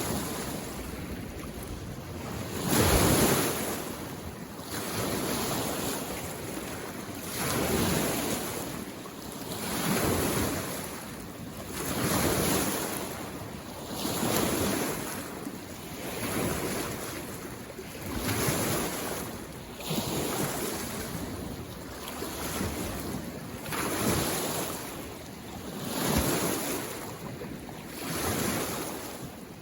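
Small lake waves washing in on the shore, one surge about every two seconds, the biggest about three seconds in.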